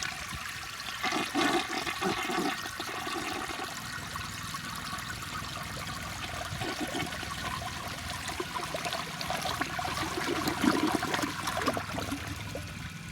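1960 Briggs toilet flushing with its siphon jet blocked: a steady rush of water into the bowl, with gurgling about a second in and again near the end as the bowl empties.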